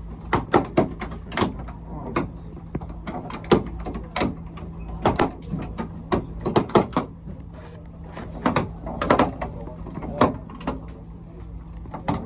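Irregular sharp clicks and knocks, a few each second, over a steady low hum.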